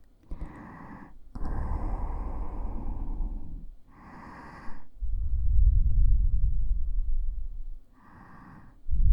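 Breath blown close into the ears of a binaural dummy-head microphone. Low rumbling gusts of air on the microphone alternate with softer, hissing breathy exhales, about four or five breaths in all.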